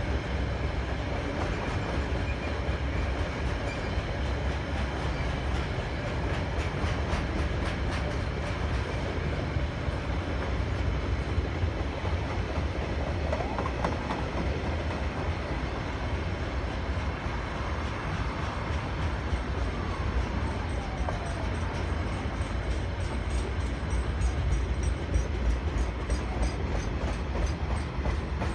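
A train rolling past, its wagons making a steady low rumble on the rails. Near the end a run of regular wheel clicks comes in over the rail joints.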